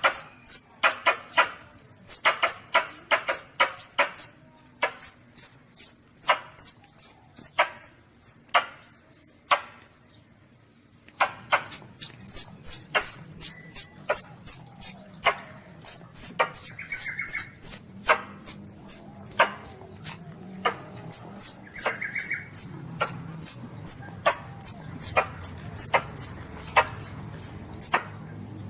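Recorded calls of a young Asian palm civet (luwak) played as a hunting lure: a rapid series of short, high-pitched squeaks, each falling in pitch, about two to three a second, with a pause of about two seconds near the middle.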